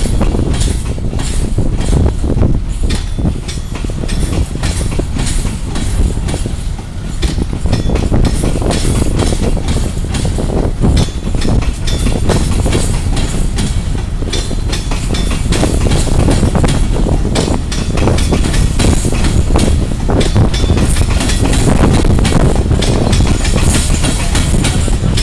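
Wagons of a long coal freight train rolling past close by, their steel wheels clattering over the rail joints. The noise is loud and steady, full of constant clicks and clanks.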